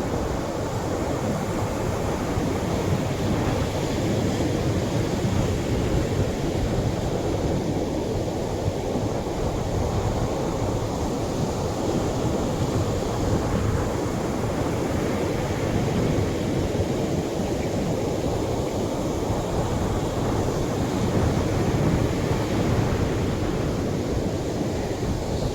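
Atlantic surf washing onto a beach: a steady, dense rush of water with no single wave break standing out.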